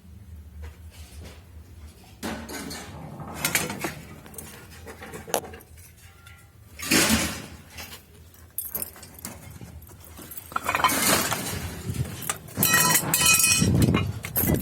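Scattered clinks and knocks of metal scrap being handled, getting busier in the last few seconds, with a brief pitched ringing near the end.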